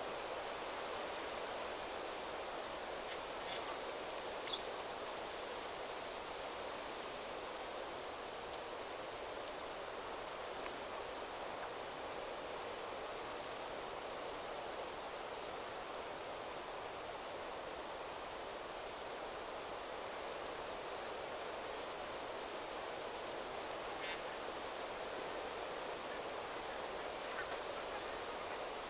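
Wind rustling steadily through forest trees, with a small bird giving short, very high-pitched calls every few seconds and a few sharp clicks.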